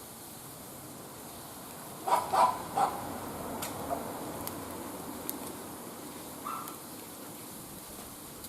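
A dog barking three times in quick succession about two seconds in, with a couple of shorter, fainter calls later on.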